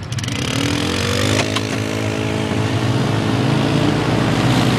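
Off-road vehicle engine revving up while driving through mud. Its pitch rises over the first second and a half, then holds high under load over a steady rushing noise.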